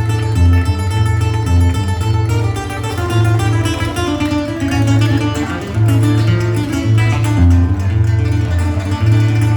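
Band music: a plucked guitar melody over a pulsing bass line.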